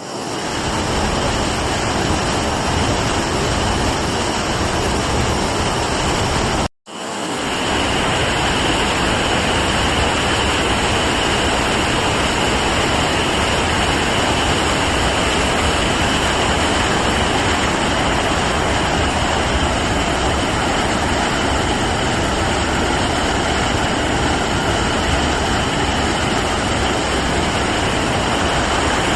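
Hirayu Otaki, a 64 m waterfall, roaring steadily. About seven seconds in the sound cuts out for a moment and fades back up.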